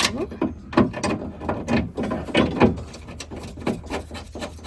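Irregular metal clicks and knocks as a power-window regulator is fitted inside a 1998 Dodge Ram 1500 door and its bolts are set into their holes.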